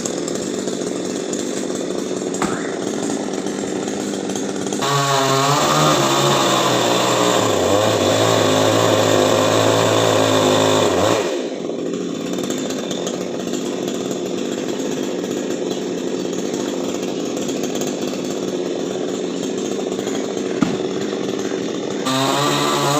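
Two-stroke chainsaw running, throttled up about five seconds in and held at high revs with a wavering pitch for about six seconds as it cuts into a coconut tree, then dropping back to a lower speed. It revs up again near the end.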